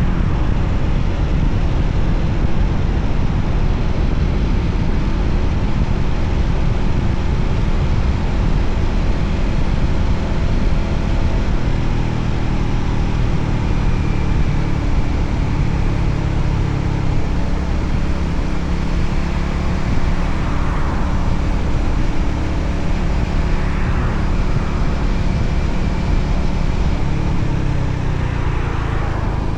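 Voge 300ACX single-cylinder motorcycle engine running under way, with heavy wind rush on the microphone; the engine pitch rises and falls a few times in the later part.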